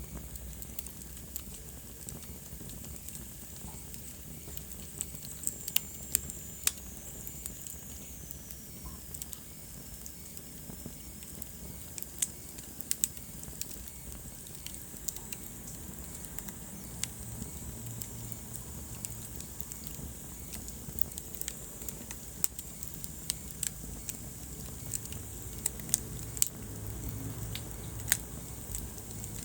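Wood fire in a fireplace crackling, with irregular sharp pops over a steady low rumble and hiss. A faint high whistle falls in pitch about six seconds in.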